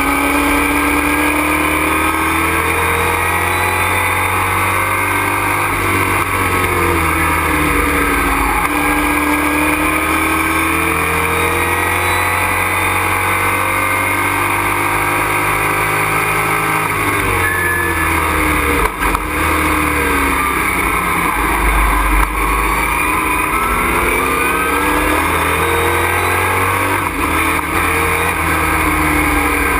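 Race truck engine heard from inside the cockpit at racing speed, its pitch climbing under acceleration and dropping on lifts and downshifts several times.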